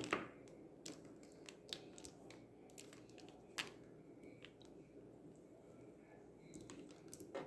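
Acrylic paint marker drawing: faint scratches and irregular sharp taps and clicks of the pen at work, the loudest click right at the start.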